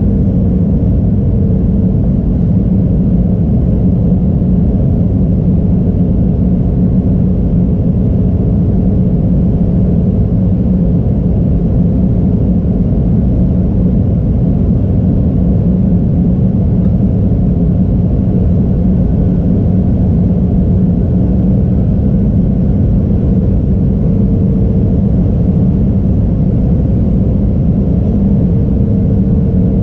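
Airliner cabin noise: a steady, loud rumble of engines and airflow with a constant low hum, unchanging throughout.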